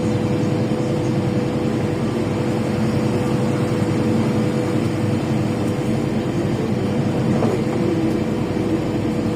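LiAZ 5292.65 city bus with a Yuchai engine heard from inside the passenger cabin, running steadily with a low rumble and a steady drone.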